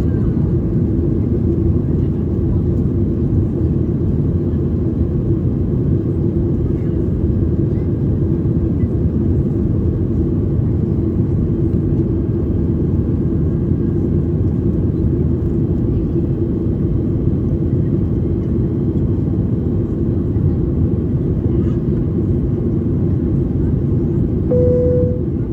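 Steady jet airliner cabin noise in flight: the drone of engines and rushing air with a constant low hum running through it. Near the end, a single short chime sounds once.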